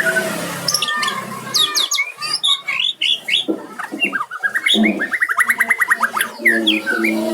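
White-rumped shama (murai batu) singing a varied song of whistles and chirps with quick pitch slides. About five seconds in comes a fast run of evenly spaced notes.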